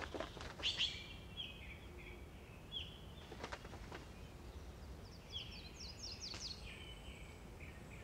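Forest birds calling: a string of short whistled notes, some falling in pitch, repeated about every half second, with a quick run of higher notes about two thirds of the way in. There are a few faint clicks over soft background hiss.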